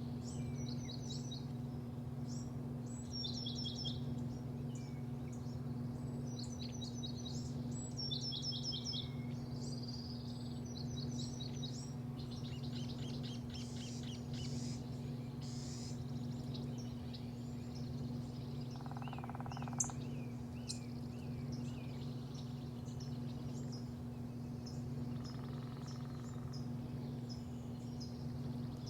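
Small birds chirping and singing, with quick repeated trilled phrases in the first half and scattered chirps later, over a steady low hum.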